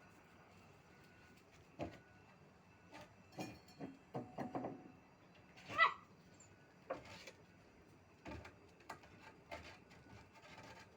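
Puppies scrabbling, with scattered short knocks and scratches, and one short puppy whine just before six seconds in, the loudest sound.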